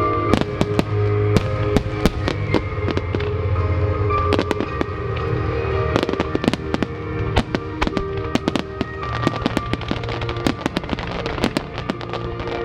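Fireworks shells bursting and crackling in quick, irregular succession, over music set to the display.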